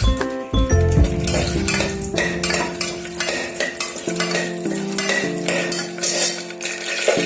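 A spoon stirring and scraping food that is frying in a pan, with sizzling, over background music with steady notes.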